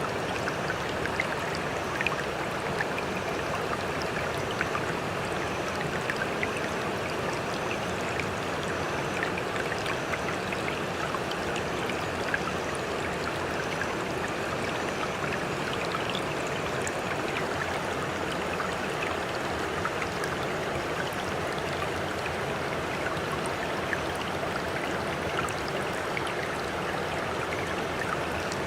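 Sea water rushing steadily, with many small crackles and splashes and no distinct wave surges.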